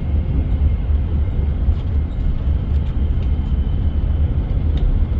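Steady low rumble of engine and road noise inside a moving passenger bus's cabin.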